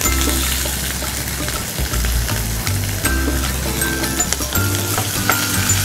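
Sliced onions, curry leaves and green chilies frying in hot vegetable oil in a pan, with a steady sizzle and occasional light clicks of stirring. A low background music bed runs underneath.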